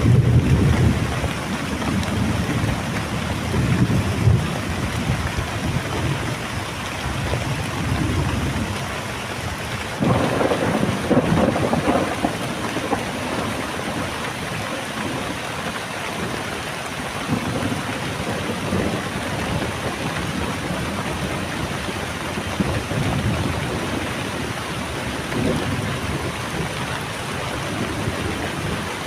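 Heavy rain falling steadily, with thunder rumbling in the first few seconds and again in a sudden roll about ten seconds in.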